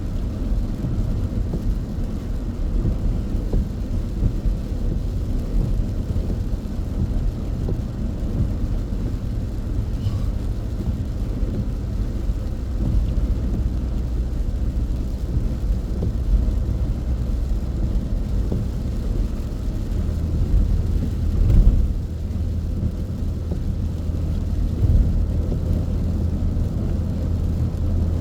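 A car driving at speed on an expressway in heavy rain: a steady low rumble of road and engine noise, with a brief louder thump about twenty-one seconds in.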